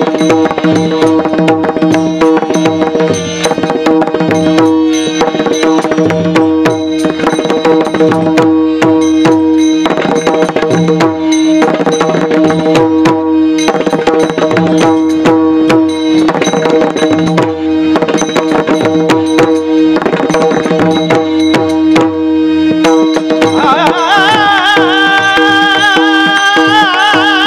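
Kirtan accompaniment: fast, dense hand-drum strokes over steady held notes. A singing voice comes in near the end.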